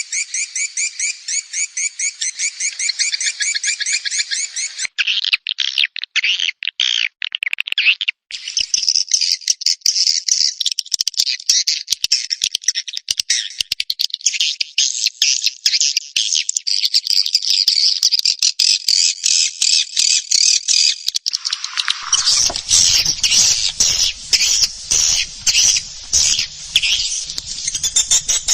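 Swiftlet lure recording of edible-nest swiftlets chirping and twittering rapidly and continuously, high-pitched, meant to call swiftlets into a nesting house and keep them roosting. It starts as a fast, even trill, breaks into a few separate calls with short gaps, then runs on as dense twittering; about twenty-two seconds in, a pulsing call with a lower buzz joins.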